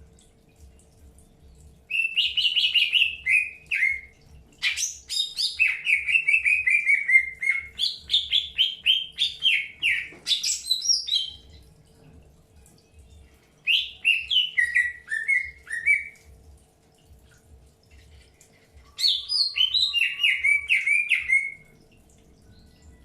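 Cucak hijau (green leafbird) singing in four phrases of quick chirps, each run stepping down in pitch, with pauses of a few seconds between them.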